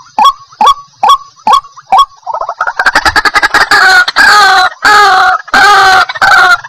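White-breasted waterhen calling: a run of short, sharp notes about two a second, then from about two seconds in a fast stutter that builds into loud, harsh, repeated calls, each about half a second long.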